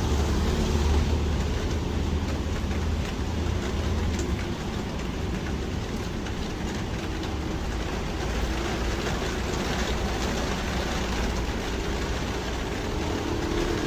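Heavy rain falling steadily on a main road, with the low engine rumble of passing traffic, strongest in the first couple of seconds.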